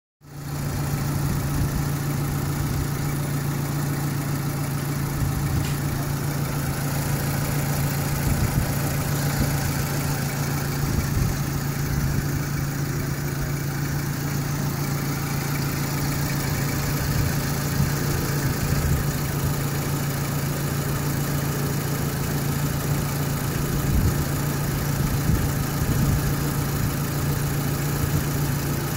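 Renault Modus engine idling steadily, with an even low hum throughout.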